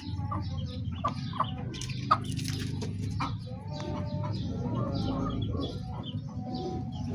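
Chickens clucking in a flock, with many short calls overlapping and some short high calls mixed in over a steady low rumble.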